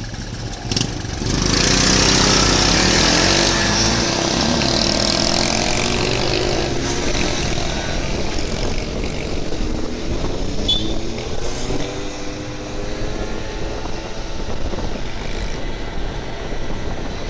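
Motorbike engine running on the move, its pitch rising and falling as it speeds up and eases off, under a steady rushing noise that comes up about a second and a half in.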